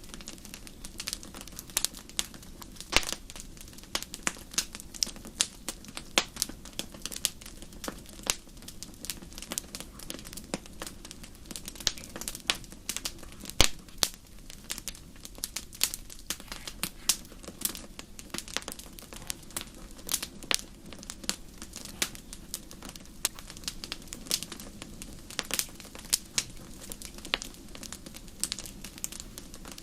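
Wood fire crackling, with irregular sharp pops and snaps several times a second over a steady low background, and one louder pop about halfway through.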